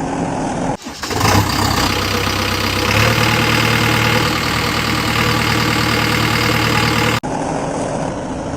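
Engine idling steadily, broken by two abrupt cuts, about a second in and near the end.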